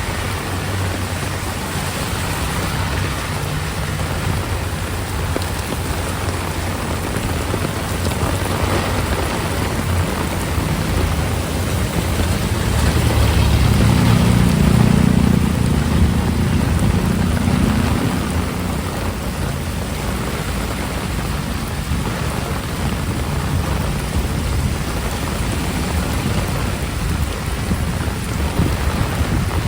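Heavy rain pouring steadily, with a low rumble that swells about halfway through and dies away a few seconds later.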